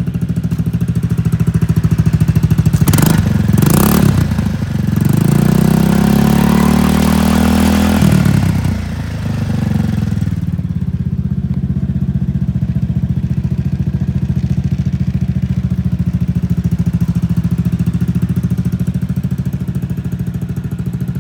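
Honda Fusion scooter's 250 cc single-cylinder engine idling. It is blipped twice about three seconds in, then held at higher revs for a few seconds, and drops back to a steady idle about ten seconds in.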